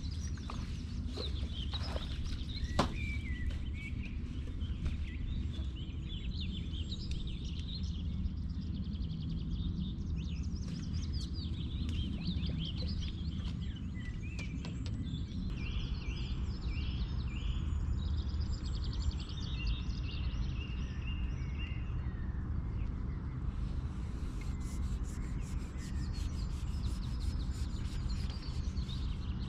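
Wild birds singing, with many chirps and trills, over a steady low background rumble; near the end comes a fast run of high ticks.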